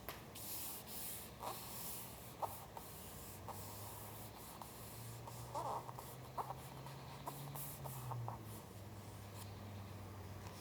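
Paper being handled on a work surface: soft rustling and rubbing swishes in short bursts, with a few small ticks.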